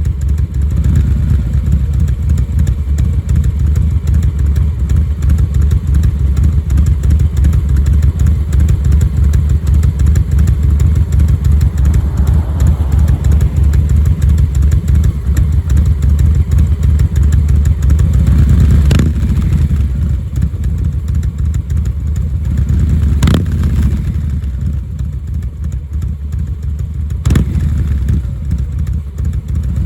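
Harley-Davidson Milwaukee-Eight 117 V-twin idling at about 730 rpm through Cobra RPT 3-inch slip-on mufflers, its Tman-001 cam giving a lopey, three-beat-style exhaust rhythm. A few sharp clicks stand out in the second half.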